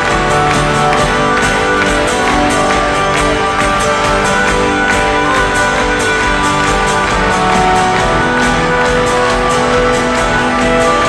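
Live band music, strummed guitars over a steady beat, with no singing.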